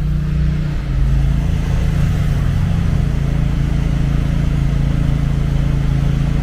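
Motor vehicle on the move: a steady low engine drone over road noise. About a second in, the engine note steps down in pitch and the sound gets a little louder.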